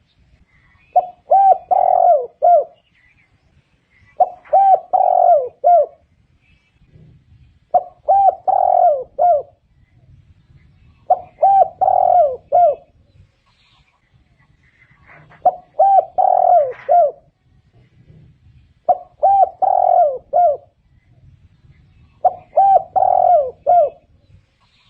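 Spotted dove singing: a repeated phrase of several short, husky coos, about seven phrases spaced about three and a half seconds apart.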